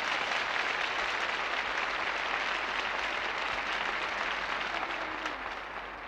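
Concert audience applauding, a dense steady clapping that slowly dies down near the end.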